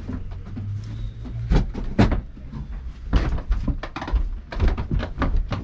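A run of irregular knocks and thumps, several a second, over a low steady hum.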